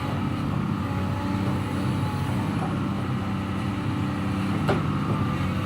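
Excavator's heavy diesel engine running steadily, with one sharp knock about four and a half seconds in.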